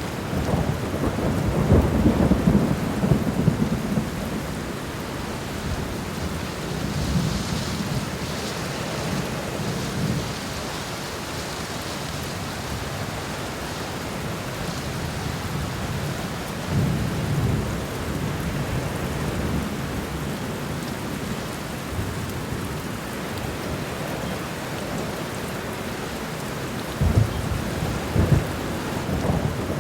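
Steady rain falling on a garden floor, with low rumbles swelling up several times; the loudest rumbles come near the start and near the end.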